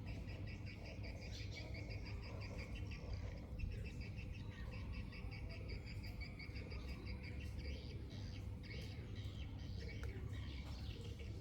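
Small birds chirping in quick runs of short, high, repeated notes over a steady low rumble.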